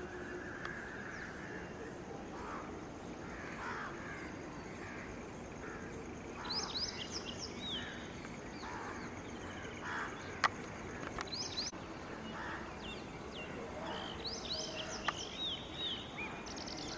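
Outdoor ambience with a steady noise bed and birds calling repeatedly. Bursts of quick, high chirps come about six seconds in, around eleven seconds and again near the end, with a single sharp click about ten seconds in.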